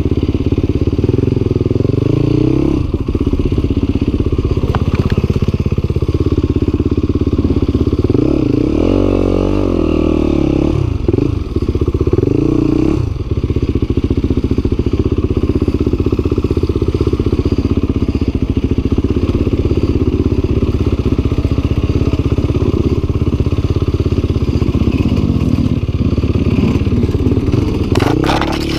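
Yamaha WR250F's single-cylinder four-stroke dirt-bike engine running under load, the revs repeatedly rising and falling, with a few sharp knocks.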